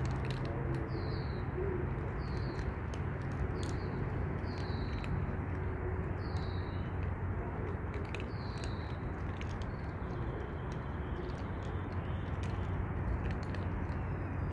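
A bird repeating a short, falling chirp about every second, over a steady low background hum.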